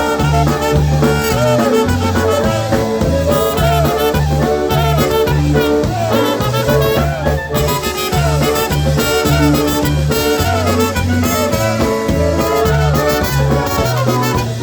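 Live polka band playing an instrumental introduction, with a steady bass-and-drum beat under a brass and reed melody.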